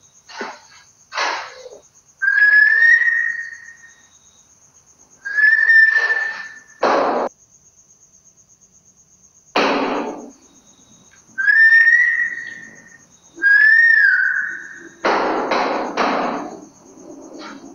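Four drawn-out whistled notes, each about a second and a half long, rising slightly at the start and then holding steady. Short breathy hissing bursts come between them.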